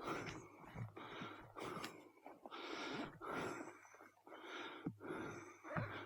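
A person breathing heavily close to a body-worn microphone: a string of short, soft in-and-out breaths, about one every three-quarters of a second.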